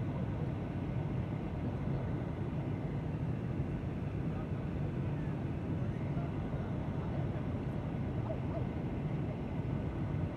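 Steady low drone of an airliner heard from inside the passenger cabin, engine and airflow noise holding level without change.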